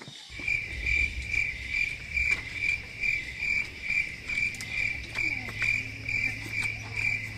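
A singing insect, cricket-like, chirping in an even, high-pitched pulse, about two and a half chirps a second.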